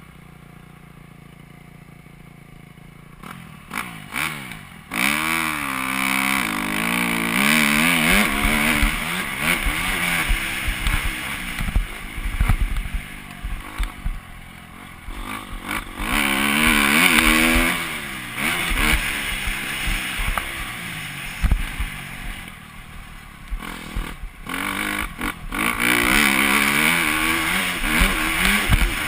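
Four-stroke Honda motocross bike engine revving hard and falling back again and again as it runs around the track, its pitch rising and dropping with throttle and gear changes. It starts quieter for the first few seconds before the engine comes in loud.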